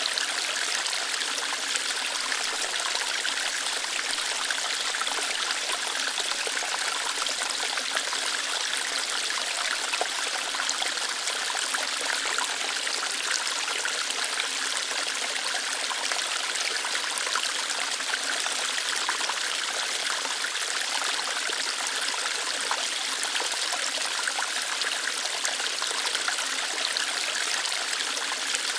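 Small waterfall of shallow water running lightly over rocks, a steady trickling and splashing with no pauses.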